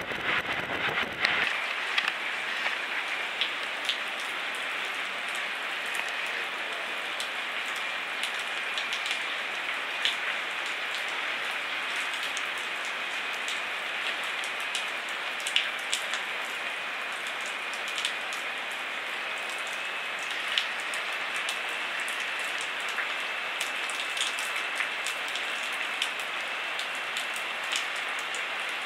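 Rain falling, a steady patter with many sharp drop ticks, picked up by a camcorder microphone covered with sponge. A low wind rumble on the microphone drops away about a second and a half in, and a faint steady high whine runs underneath.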